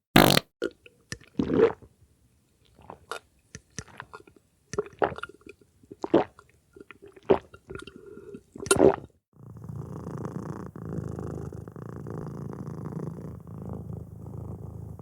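A string of short, sharp clicks and knocks, then about nine and a half seconds in a domestic cat starts purring steadily close up.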